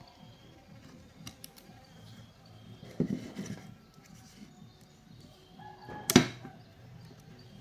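Bench work on a Makita angle grinder: parts and tools being handled, with a clattering knock about three seconds in and a sharper, louder knock about six seconds in.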